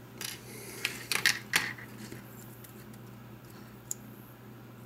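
Small plastic parts of a Roomba bumper sensor assembly clicking and rattling as a plastic separator is pushed off by hand: a quick cluster of sharp clicks in the first couple of seconds, then a single tick near the end.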